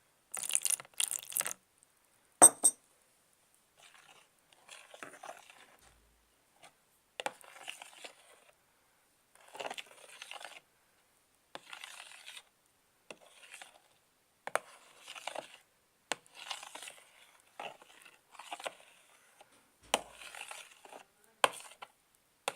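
Glue and borax-water slime being stirred slowly in a container, with repeated scraping strokes about once a second and a few sharp clicks of the stirrer against the container. The mixture is thickening and pulling together into slime.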